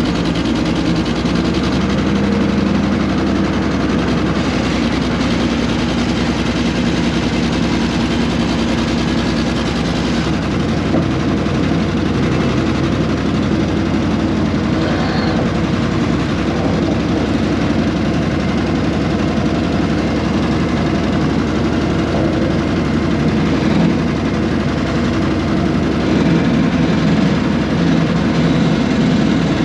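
Air-cooled Deutz diesel engine of a 1970s excavator running steadily, its low tone shifting about ten seconds in.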